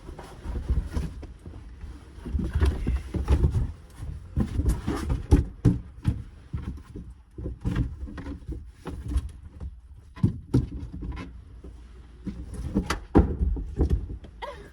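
Handling noise from a cardboard box and packaging being moved and unpacked: irregular rustles, knocks and thumps, with low bumping on the phone's microphone.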